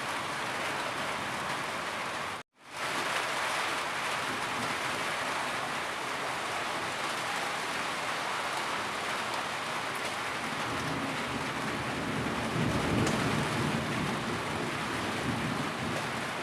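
Steady heavy rain falling, an even hiss of many drops. The sound cuts out completely for a split second about two and a half seconds in, then resumes. A deeper low swell rises under the rain near the end.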